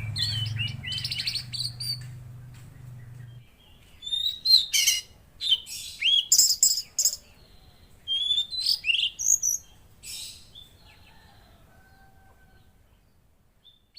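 Tledekan laut songbird singing in bursts of sharp high chirps and quick trilled notes, falling quiet for the last few seconds. A faint low hum runs under the first few seconds.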